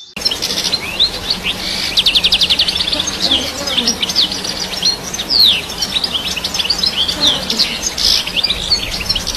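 European goldfinch singing: a fast, unbroken twitter of high chirps, with quick trills and short down-sweeping notes.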